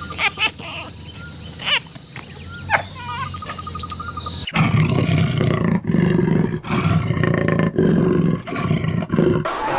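Insects trilling and birds chirping for about four and a half seconds. Then an abrupt change to a large animal giving five or so deep, loud calls in a row, each under a second long.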